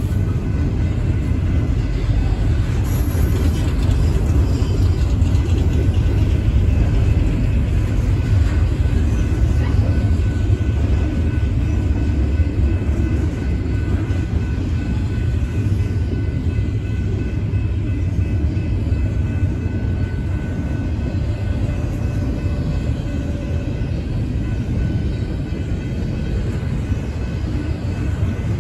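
Double-stack intermodal freight train's well cars rolling past: a steady low rumble of steel wheels on rail, with faint steady high-pitched tones above it.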